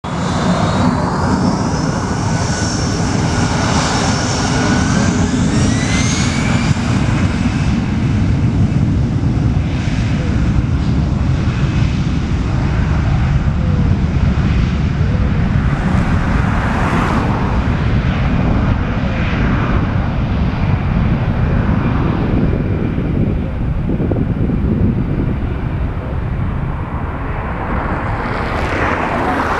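Airbus A321-211 jet engines at high power with a steady heavy roar; over the first six seconds or so a high whine rises in pitch as the engines spool up, typical of a takeoff run.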